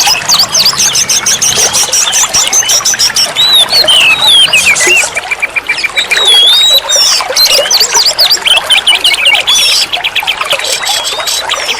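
Oriental magpie-robin (kacer) song: a dense stream of varied, quick whistled phrases and chattering notes, with a run of rapid, evenly repeated notes about halfway through.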